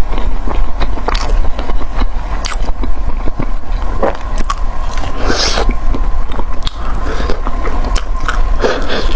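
Close-miked eating: biting and chewing food, with many irregular crunchy clicks over a steady low hum.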